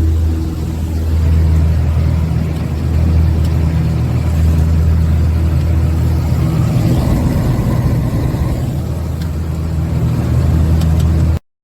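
An engine running with a steady low drone that turns rougher and noisier about two-thirds of the way through, then steadies again and stops abruptly near the end.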